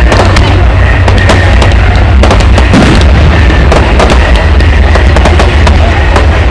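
Fireworks display: a rapid run of bangs and crackles, several a second, over a continuous low rumble, very loud throughout.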